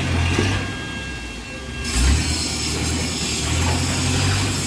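Off-road pickup truck engine running under load: a deep steady rumble with a loud rushing noise over it, which changes abruptly a little under two seconds in.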